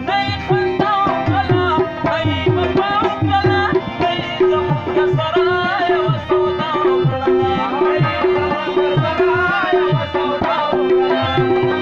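Instrumental interlude of South Asian folk music: a tabla plays a steady rhythm, its bass drum strokes sliding down in pitch, under a bending melody line.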